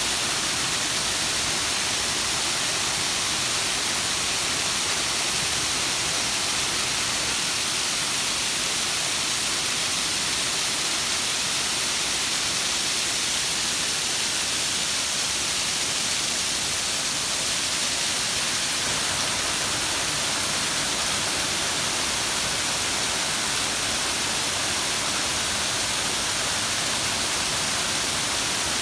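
Running water rushing steadily as an even hiss, heaviest in the high range, with no change in level throughout.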